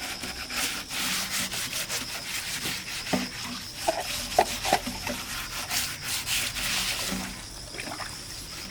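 Repeated scraping strokes in quick succession, with a few short squeaks in the middle, typical of hand sanding or scrubbing work on a part.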